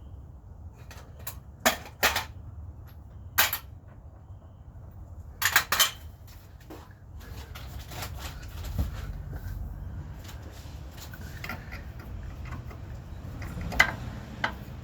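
Hand tools and metal parts clinking and clanking sharply during work under a car: a few separate strikes in the first few seconds, a quick cluster around six seconds in, and two more near the end, over a steady low rumble.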